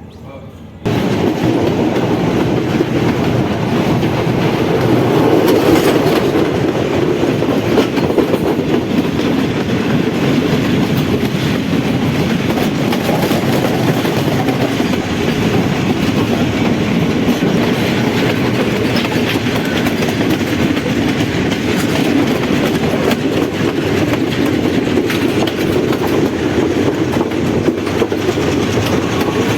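Passenger train running, a steady loud rumble with the wheels clattering over the rail joints. It starts abruptly about a second in.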